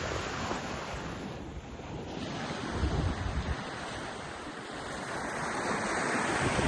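Ocean surf washing onto a beach, the noise of the waves swelling toward the end, with wind buffeting the microphone in low gusts.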